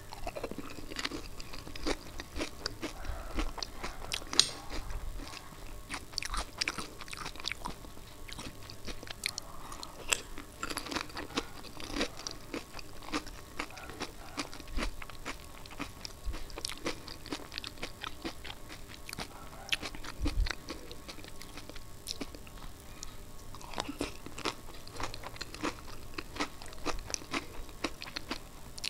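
Close-miked eating of dahi puri: crisp puri shells crunching between the teeth and chewing, in a dense run of small, irregular crunches.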